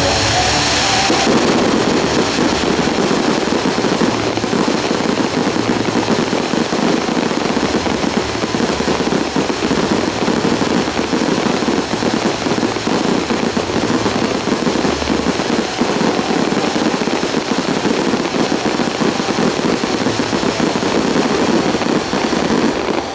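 Aerial firework shells bursting in a dense, unbroken rapid-fire barrage, the explosions running together into a continuous rumbling crackle: the grand-finale salvo of a fireworks display. It cuts off suddenly near the end.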